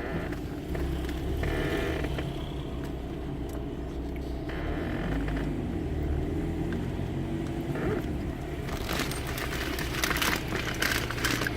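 Car engine and road noise heard from inside a slowly moving car, a steady low rumble. About nine seconds in, a run of crackling and rattling clicks starts.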